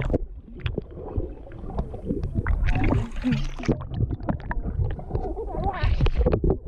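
Pool water sloshing and splashing close to the microphone, with a heavy low rumble and scattered knocks and bumps.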